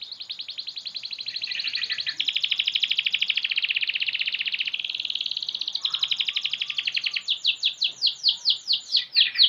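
Young domestic canary, about six months old, singing a long unbroken song of fast rolling trills, switching to slower up-and-down sweeping notes, about four a second, near the end.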